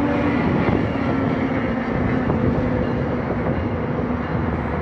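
Commuter train running: a steady rumble with a low engine drone, whose pitch drops slightly just after the start.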